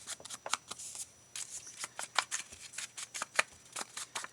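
Paper being handled: irregular short rustles and crisp clicks, with a brief lull about a second in.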